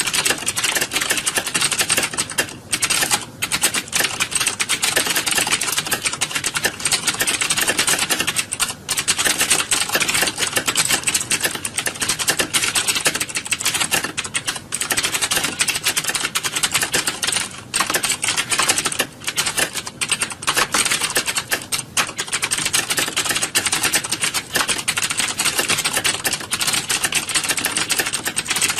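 Many computer keyboards being typed on at once, as in an exam hall: a dense, continuous clatter of key clicks with a few brief lulls.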